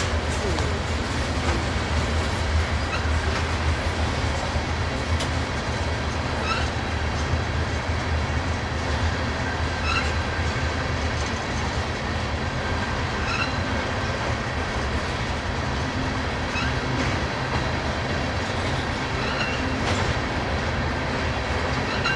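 Norfolk Southern mixed freight train's tank cars and flatcars rolling past: a steady low rumble of steel wheels on rail, with a short high squeak every three seconds or so.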